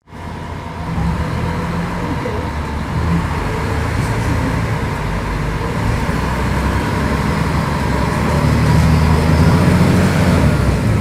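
Diesel engine of a Mercedes-Benz O500UDA city bus running. Its note climbs and grows louder about eight seconds in, as under acceleration.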